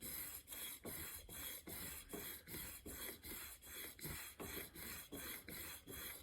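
A single-bevel steel broadhead held in a roller sharpening jig, rubbed back and forth on a wet diamond sharpening plate with light pressure. It makes an even rasping stroke about two and a half times a second, and the strokes stop suddenly at the end.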